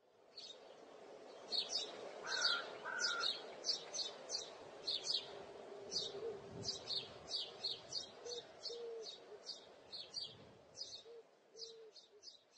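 Small birds chirping: short high chirps repeating about twice a second, over a low steady hum.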